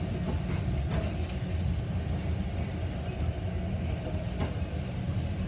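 Metra commuter train running, heard from aboard a passenger car: a steady low rumble of the wheels on the track, with a few faint clicks.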